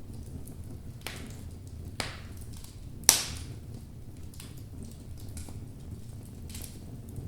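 Wood logs burning in a fireplace: a steady low rumble of flames with crackling and sharp pops, the loudest pop about three seconds in.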